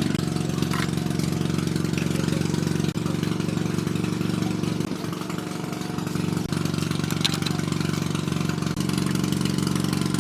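A motor or engine running steadily at an even speed, with its level and tone shifting slightly a few times.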